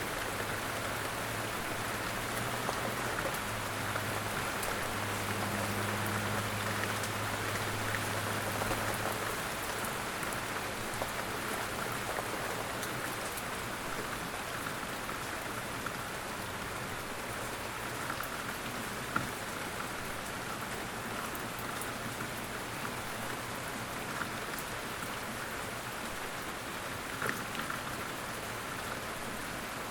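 Light rain falling steadily, an even patter with scattered single drops standing out. A faint low hum sits under it for the first ten seconds or so, then fades.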